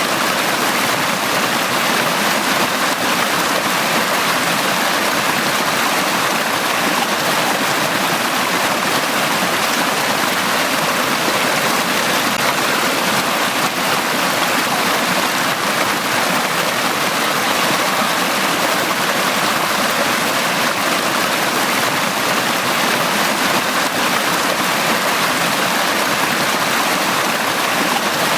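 Brook running steadily over rocks, a continuous rushing and babbling of flowing water.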